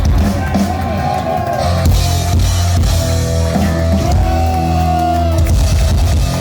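Heavy metal band playing live and loud at the end of a song: distorted electric guitar and bass hold low notes under drum-kit hits, with wavering, sustained high guitar tones.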